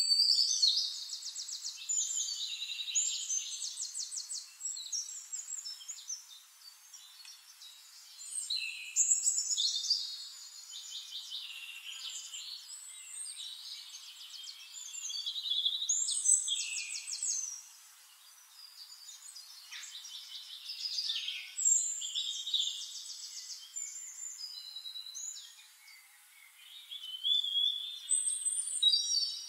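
Songbirds singing, a mix of high chirps and fast trills in phrases every few seconds.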